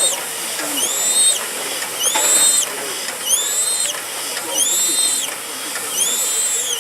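A metal mechanism squeaking in a steady rhythm, about once a second. Each squeak is a high tone that rises and then falls.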